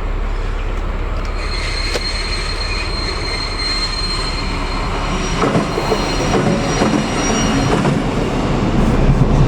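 Train rolling through with a high-pitched squeal from its wheels on the rails. A heavier rumble builds from about halfway through.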